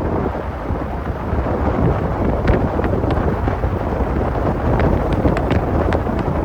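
A car driving on a snowy road: a loud, steady low rumble of road and engine noise with wind buffeting the microphone, and scattered light clicks throughout.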